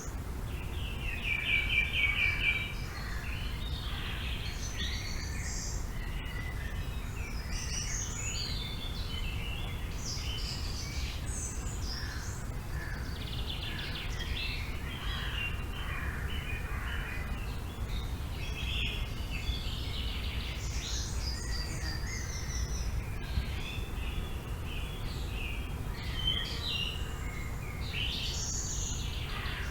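Several songbirds chirping and calling over a steady low wind rumble. About two seconds in, one bird gives a loud, rapid trill.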